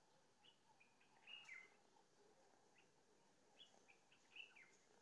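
Faint bird chirps: short, high calls scattered through near silence, with a slightly louder pair about a second and a half in and a quick run of them near the end.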